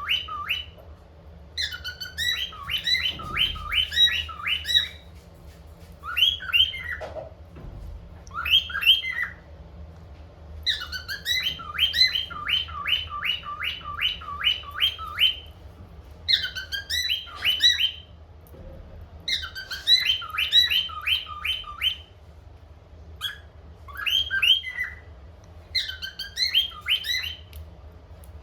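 Cockatiels chirping in fast runs of repeated sweeping notes, about five a second, the runs broken by short pauses, over a faint steady low hum.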